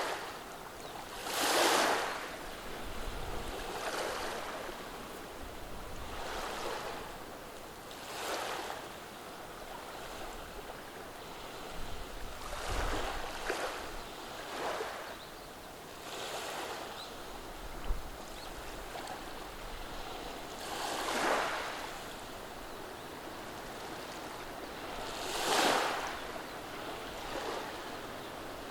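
Small waves on a calm day washing over a beach of rounded pebbles, each wave a soft surge and hiss that comes every few seconds, with the biggest ones about a second in and near the end. A single sharp click about 18 seconds in.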